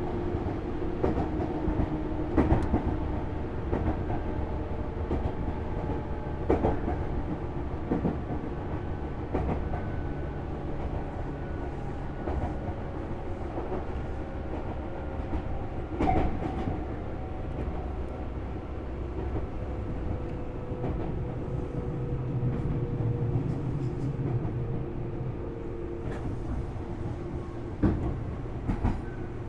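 Tobu Series 6050 electric train heard from inside motor car MOHA6172, running at speed with a steady low rumble of wheels on rail and occasional sharp clacks over rail joints. A faint motor and gear whine slowly falls in pitch through the middle as the train eases off speed.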